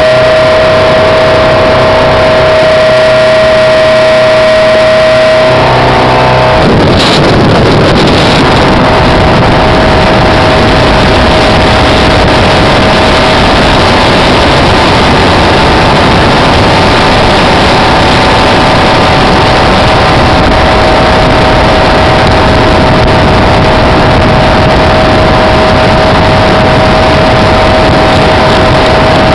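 Speedboat engine running at speed with a steady whine, very loud and close. About six seconds in, the note shifts and a burst of rushing noise swells up. From then on, wind and water rush loudly over the engine tone.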